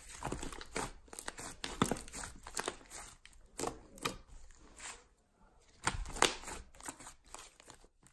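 Slime being squeezed, stretched and pressed by hand, giving off irregular sticky crackles, clicks and small pops.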